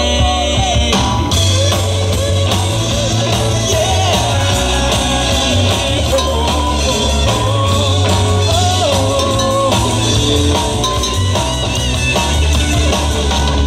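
Live rock band playing an instrumental passage of an original song, with guitar over bass and drum kit.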